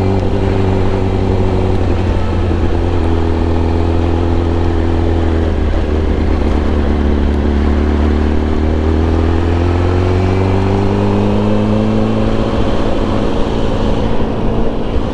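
Yamaha R1's inline-four engine running under way. Its note drops in steps about three and six seconds in, then rises slowly through the rest.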